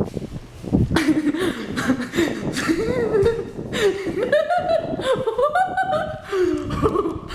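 A woman laughing, her pitch wavering up and down in repeated peals.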